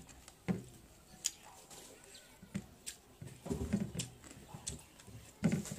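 Close-up eating sounds of someone chewing a mouthful of rice: wet lip smacks and mouth clicks at irregular intervals, with a busier run of chewing about three and a half seconds in.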